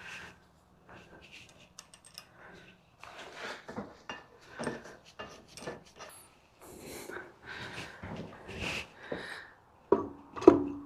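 Metal shaper-fence parts handled on a workbench: a run of irregular scrapes, rubs and light clicks, with a sharper metallic clank that rings briefly near the end.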